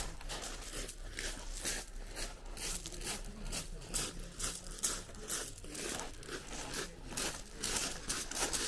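Beach pebbles crunching: a quick, irregular run of sharp crunches, several a second, over a faint low rumble.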